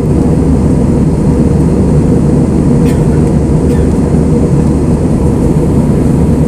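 Airbus A320 engine and airflow noise heard inside the passenger cabin: a loud, steady, low rumble, with two faint clicks about three seconds in.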